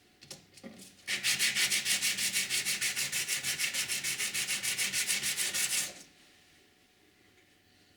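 Steel being cut by rapid back-and-forth strokes, a rhythmic rasping of about eight or nine strokes a second, while a new key is made. It starts about a second in after a few light knocks and stops abruptly about six seconds in.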